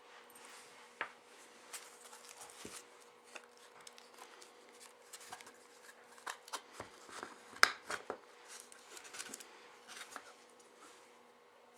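Small metal clicks, scrapes and taps of an Allen key and loose parts being worked by hand on the base of a K40 magnetic-mount CB antenna as its set screw is backed out and the base part released, with one sharper clack about seven and a half seconds in.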